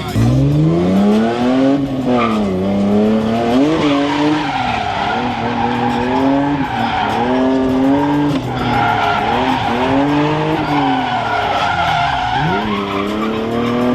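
Drift car's engine revving up and down over and over as it is driven hard, with tyres squealing through long slides from about four seconds in.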